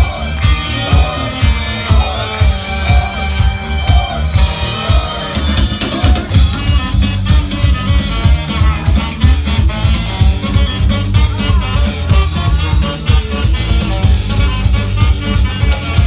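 Punk-rock band playing an instrumental passage with drum kit, bass and electric guitar on a steady driving beat; the sound gets fuller about six seconds in.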